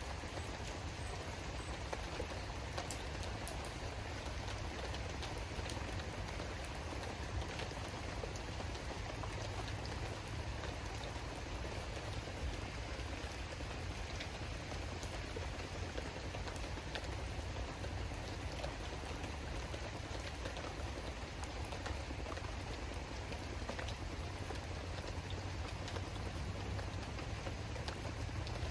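Steady rain falling, with scattered sharp drop hits over a continuous hiss and a low rumble underneath.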